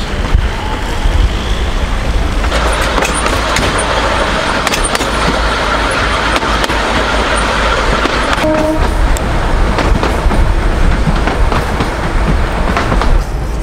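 Narrow-gauge passenger train running along the track: a steady rush of wheel and wind noise with clicks of the wheels over the rails. It grows louder from about two and a half seconds in until about eight seconds in.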